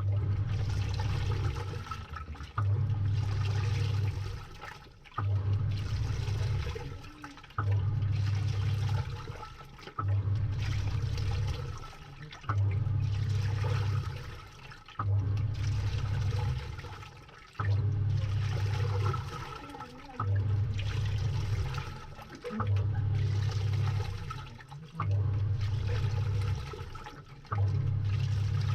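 Samsung 6.5 kg top-load washing machine agitating in its wash stage, heard from inside the drum. The motor hums in pulses of about two seconds, one roughly every two and a half seconds, as the pulsator churns water and clothes back and forth, with water sloshing throughout and a few sharp clicks.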